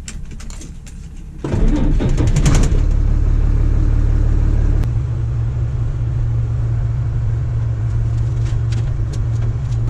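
Diesel engine of the machinery loading creek gravel. It idles low, gets much louder about a second and a half in with a brief clatter, then runs steadily with a deep drone.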